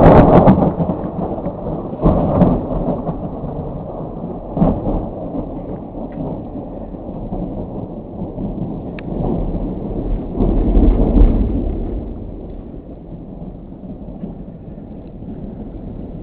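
Thunder in a snowstorm (thundersnow): a loud crack-and-rumble right at the start, followed by rolling rumbles that swell again about 2 seconds in and around 10 to 11 seconds in, then fade.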